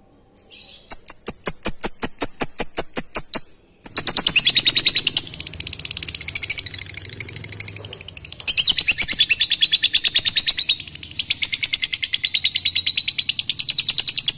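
Lovebird (Agapornis) giving sharp ticking notes, about six a second, then breaking into the long, rapid, high-pitched chattering trill known as 'ngekek', which carries on for about ten seconds and stops abruptly.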